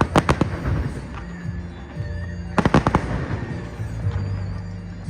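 Aerial fireworks bursting in two clusters of rapid sharp cracks, one right at the start and another about two and a half seconds in, with music playing underneath.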